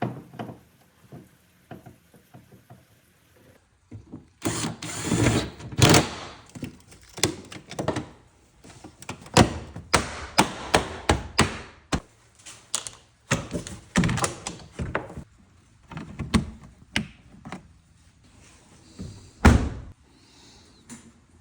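Irregular knocks, thunks and clicks of hands working double-sided tape along the edges of a plastic rear wing, with a denser noisy stretch about four seconds in and a loud knock near the end.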